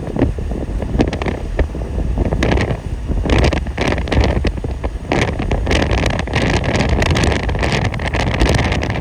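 Vehicle driving, with loud steady road and wind noise and rough, crackling wind buffeting on the microphone.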